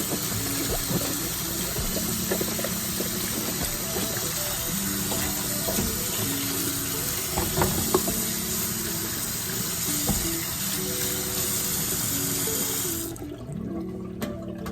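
A kitchen sink tap runs steadily over vegetables being washed, with a few knocks around the middle, and is shut off about a second before the end.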